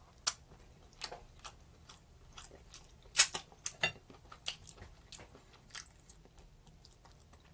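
A person chewing and biting on a roast chicken wing, eaten close to the microphone: irregular sharp mouth clicks, the loudest a little past three seconds in.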